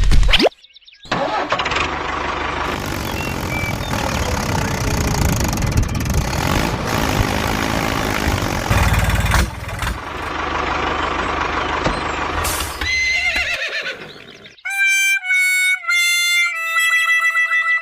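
Mini tractor engine running with a rough, rattling rumble. Near the end it gives way to a few held electronic tones that step in pitch, like a short jingle.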